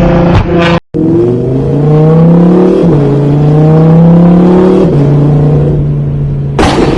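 A car engine accelerating hard, its pitch rising and then dropping at two gear changes before holding steady. A loud bang comes near the end, and a few sharp pops come before a sudden cut about a second in.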